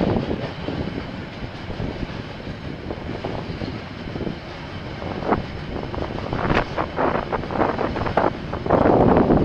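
Train passing on the rail line: a steady rumble with a run of sharp clicks and knocks from about halfway, growing louder near the end.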